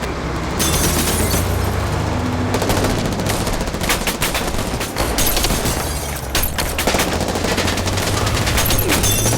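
Sustained gunfire in a staged film gunfight: many rapid shots and bursts of automatic fire, crowded close together, over a steady low drone.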